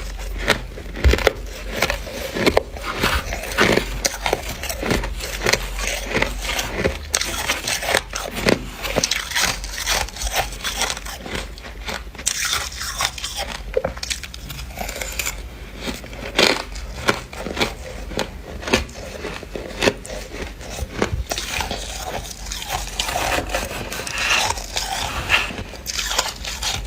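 Dry, squeaky freezer frost being bitten and chewed, a dense run of irregular crunches and crackles.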